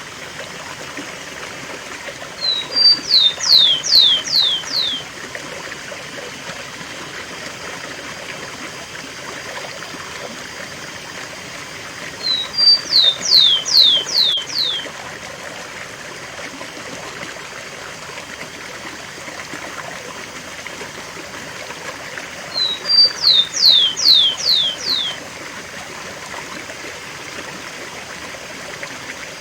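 Rufous-collared sparrow (tico-tico) singing the 'cemitério' song three times, about ten seconds apart. Each song is two short notes followed by five quick falling whistles, over the steady rush of a waterfall.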